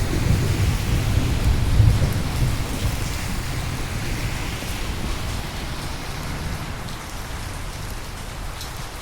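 Steady rain with a long roll of thunder that is loudest in the first two seconds and fades away, leaving the rain falling.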